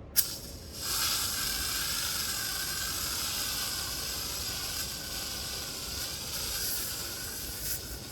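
Gender-reveal aerosol colour spray can: a sharp click, then the paint sprays out with a steady high hiss for about seven seconds, cutting off near the end with a small click.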